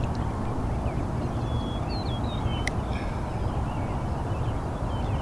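Steady low outdoor rumble with a few faint, short bird chirps about two seconds in and a single sharp click shortly after.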